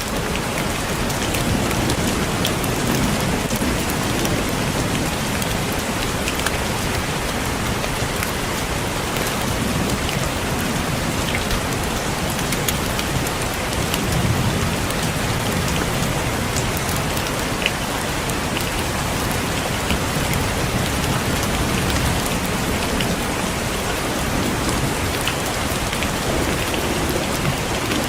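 Steady heavy rain falling on a roof, with scattered sharp drip ticks. A few low rumbles swell and fade, about a couple of seconds in, around the middle, and near the end.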